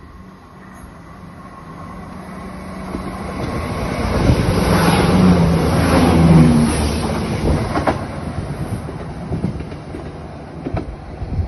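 A train passing close by. Its rumble builds for about four seconds, peaks near the middle and then fades, with the wheels clattering over rail joints as it goes past.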